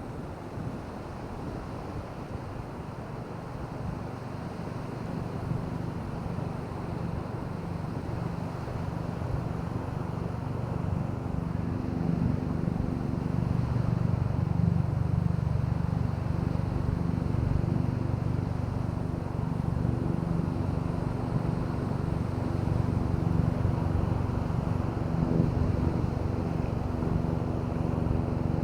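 An engine drawing nearer, growing louder over about the first half, then running at a steady pitch.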